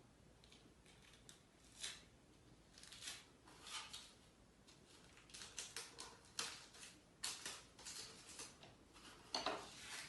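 Faint, irregular rustles and scrapes of brown cardstock and adhesive tape being handled as strips are stuck together, growing busier in the second half.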